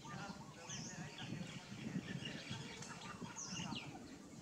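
Birds chirping: a short, high call repeats about every two and a half to three seconds over a scatter of quicker, lower chirps, with low background noise beneath that is loudest about two seconds in.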